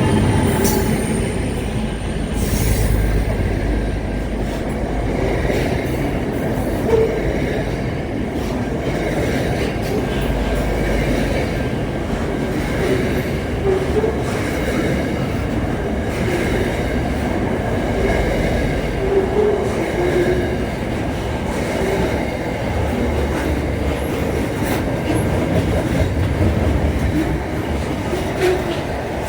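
A train running along the rails: a steady rumble of wheels on track, with brief squeaky notes and clicks now and then.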